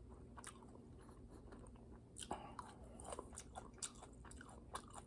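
Faint chewing of kimchi: soft, irregular crunching clicks of a mouthful of cabbage being chewed.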